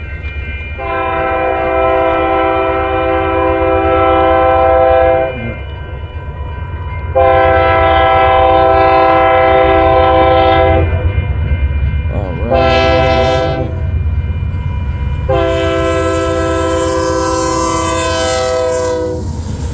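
Freight locomotive's air horn sounding the grade-crossing signal: two long blasts, a short one, then a long one, each a steady chord of several notes. A continuous low rumble from the approaching train runs underneath.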